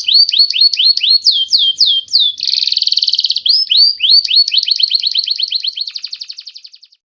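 White-rumped shama (murai batu) giving its 'trotol' call: fast rattling trills broken by runs of quick slurred whistles. It fades out near the end.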